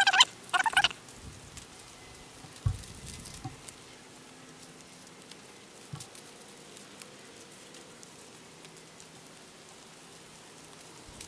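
A bird calls twice in quick succession right at the start. After that there are only faint rustles and a few soft thumps as cattail leaves are pressed and woven by hand.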